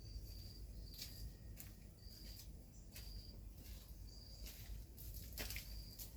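Cricket chirping: short, steady high-pitched chirps repeating about once or twice a second, faint, over a low rumble with scattered clicks.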